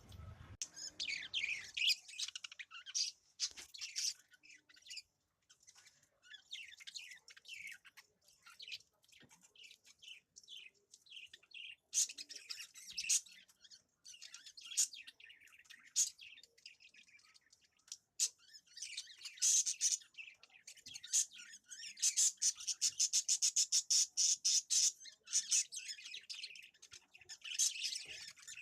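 Small birds chirping and calling with short high chirps throughout; about three quarters of the way through, one bird gives a fast, even run of chirps, about ten a second, lasting a few seconds.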